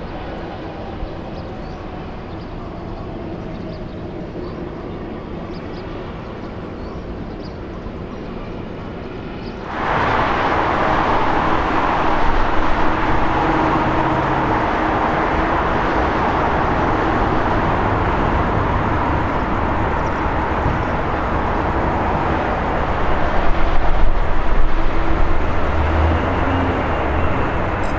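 Jet engines of an Airbus A380 airliner, heard close by. A quieter steady engine sound gives way abruptly, about ten seconds in, to a much louder, continuous jet noise, with a deep rumble growing stronger near the end.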